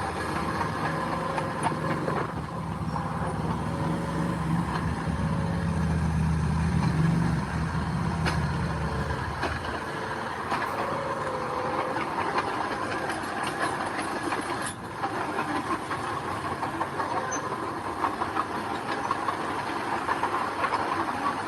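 Heavy diesel earthmoving machinery working: a low engine drone that drops away about ten seconds in, over a steady mechanical clatter and squeal with scattered metallic clicks.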